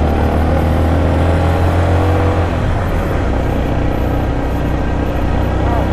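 Yamaha Sniper 155 motorcycle's single-cylinder engine running at speed, heard from the rider's own bike with a steady wind rumble on the camera microphone; its steady note fades about halfway through.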